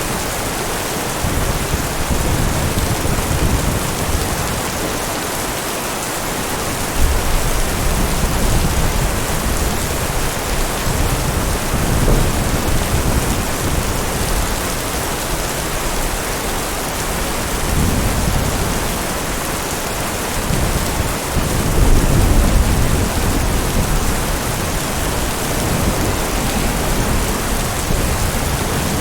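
Steady heavy rain with thunder rumbling low in the background, swelling and fading several times; the loudest rolls come about seven seconds in and again near twenty-two seconds.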